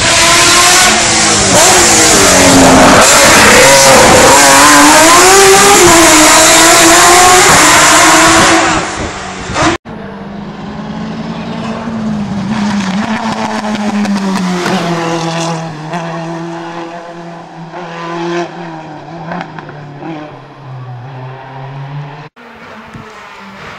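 Hillclimb race car engine at full throttle, very loud, its pitch rising and dropping through gear changes. About ten seconds in the sound cuts off abruptly to a quieter race car engine whose pitch slowly falls.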